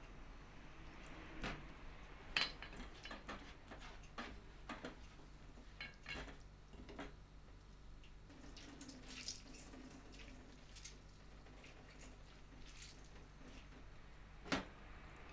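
Light, scattered clicks and knocks of small objects being handled, with a little water, like work at a sink. Two sharper clicks stand out, about two and a half seconds in and near the end.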